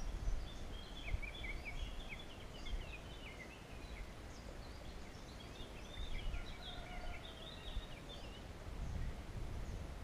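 Birds singing: two runs of quick, high chirping notes, the first about a second in and the second around six seconds in, over a low steady rumble.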